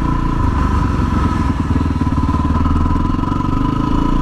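Yamaha WR250R's single-cylinder engine running under way, with a steady pulsing drone and a shift in its note about half a second in.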